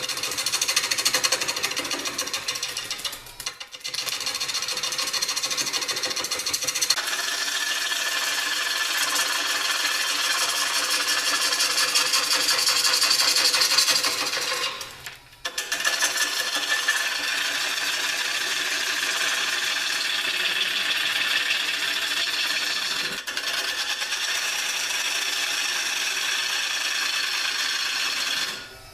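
A bowl gouge cutting a dry hard maple bowl blank spinning on a Jet mini 1221 variable-speed wood lathe: a continuous scraping, shaving sound. It breaks off briefly twice, about three and a half seconds in and about fifteen seconds in, and dies away near the end.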